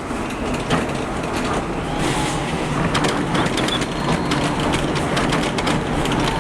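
Typhoon wind and rain buffeting the building: a steady roar with frequent rattling knocks and a faint high whistle.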